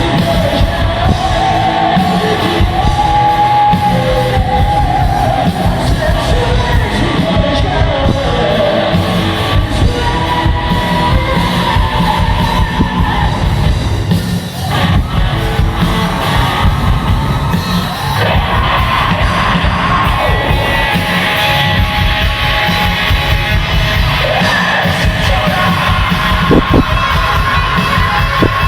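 Live rock band playing loudly, a singer's voice carried over drums and guitars in a large hall.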